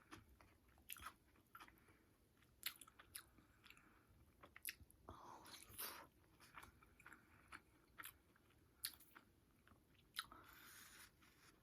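Quiet close-up eating sounds: chewing and biting takeout food, with scattered sharp clicks and short crunches.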